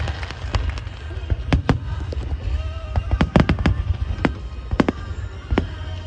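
Fireworks bursting in an irregular run of sharp bangs and crackles, thickest about halfway through, over a steady low rumble.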